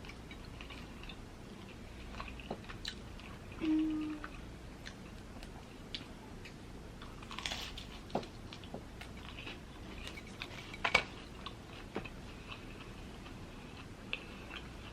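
Close-up chewing of a Korean mozzarella corn dog, with scattered short mouth clicks and a few louder bites; a brief low hum about four seconds in.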